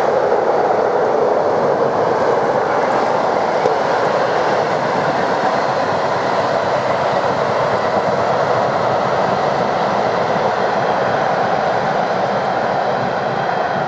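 Freight train passing at speed: a loud, steady rush and rumble of wagons on the rails, easing slightly near the end.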